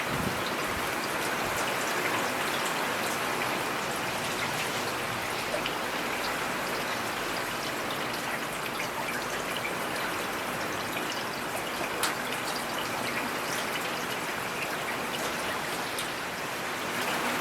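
Steady rain falling in a forest: a dense, even hiss of drops with scattered single drop ticks standing out.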